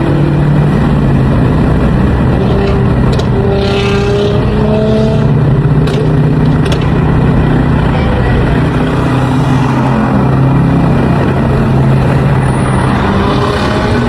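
Car engine running steadily with a low, even drone, with a few short clicks partway through.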